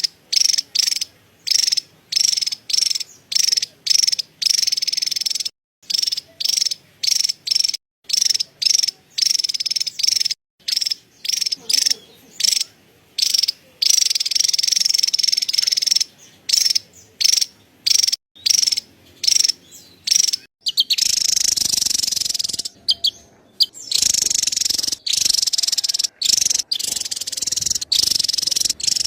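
Javan tesia chattering: short high-pitched bursts repeated about twice a second. About twenty seconds in they run together into a nearly continuous chatter.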